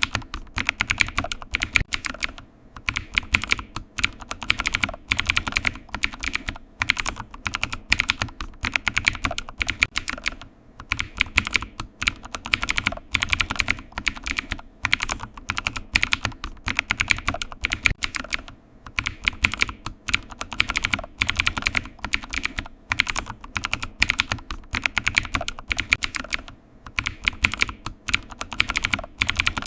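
Typing on a computer keyboard: quick bursts of key clicks at an uneven pace, broken now and then by short pauses.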